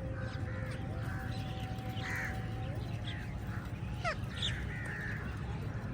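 A flock of crows cawing, many short calls overlapping, over a steady low hum.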